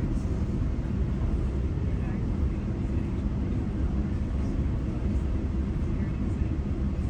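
GO Transit commuter train running between stations: a steady low rumble with no distinct knocks or changes.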